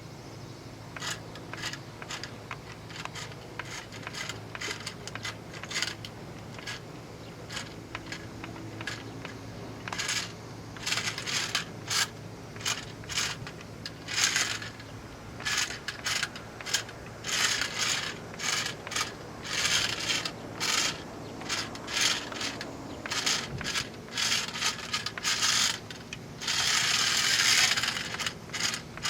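A kitten scratching and clawing at an object in quick, irregular bursts of scraping and clicking. The bursts come more often and louder from about a third of the way in, with a longer continuous scrape near the end.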